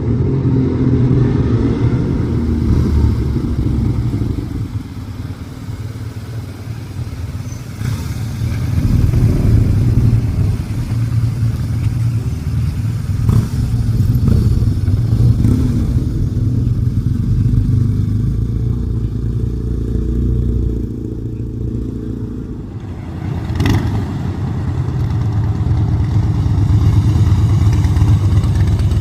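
Motorcycle engines rumbling and revving close by, the sound swelling and easing as the bikes move, with one sharp knock about three-quarters of the way through.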